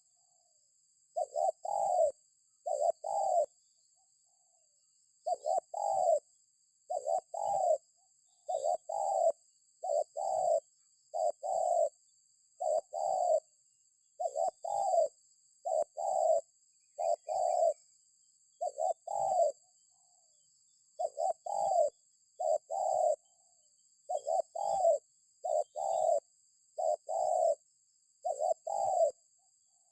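Spotted dove cooing: repeated short, low coo notes in phrases of two or three, with brief pauses between phrases.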